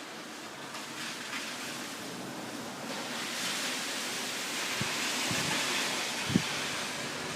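Thunderstorm rain and wind making a steady hiss that swells about three seconds in, with a few light clicks and one sharp tap near the end.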